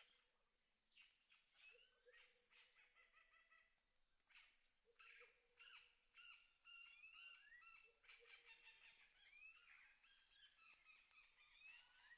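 Faint birdsong: several birds chirping and calling, with many short rising and falling whistled notes.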